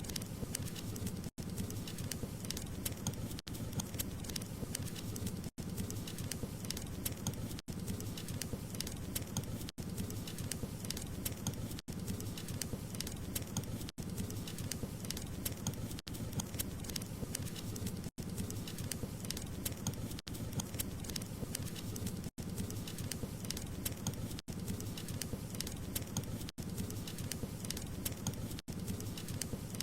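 Wood fire crackling steadily: a dense stream of small pops and snaps over a low rush of flame, with a very short dropout about every two seconds.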